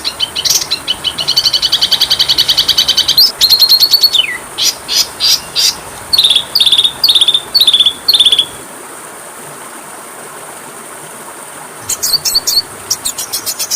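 Oriental magpie-robin (kacer) song: a fast high trill, a quick downward sweep, then a run of five short falling whistles, followed by a pause of about three seconds before rapid chirping starts again near the end. A faint steady high-pitched tone runs underneath.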